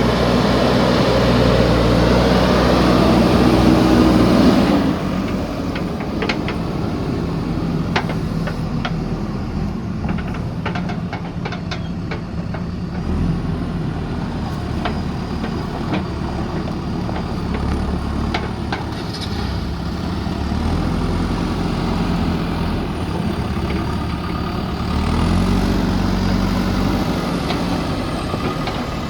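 Diesel engine of a JCB earthmoving machine working hard for the first few seconds, then dropping suddenly to a lower, quieter running note with scattered sharp knocks, before revving up again briefly near the end.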